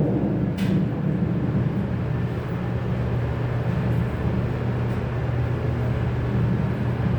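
Steady low mechanical hum, with a faint click about half a second in.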